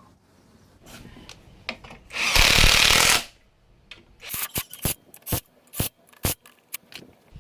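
A workshop tool runs in one loud burst of about a second, followed by a string of short scrapes and clicks.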